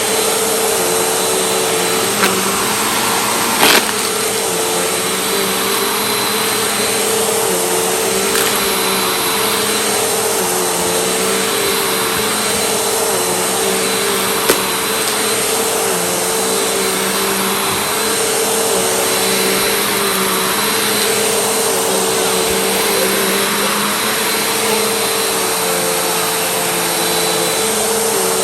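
A vacuum cleaner running steadily, its motor whine dipping slightly about every two seconds. A few sharp clicks come through, the loudest about four seconds in.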